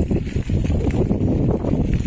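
Continuous low, uneven rumble of a bicycle being ridden off-road over rough ground, with wind buffeting the microphone.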